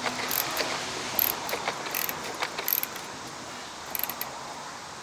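Socket ratchet clicking irregularly as a bolt on a small engine's carburetor mounting is worked loose. The clicks thin out after about three seconds.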